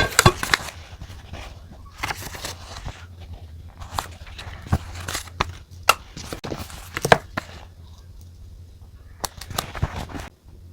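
Pen and paper handling on a desk: scattered sharp taps and clicks with short scratchy stretches, over a steady low hum.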